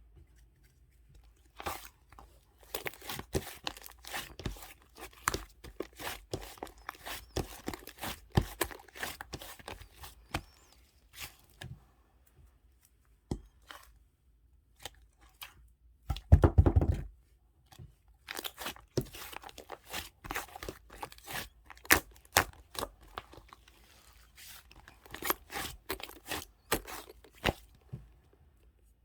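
Close-up handling noises in a small room: irregular crinkling, tearing and clicking. There is a pause in the middle, then a loud dull rumbling bump about halfway through.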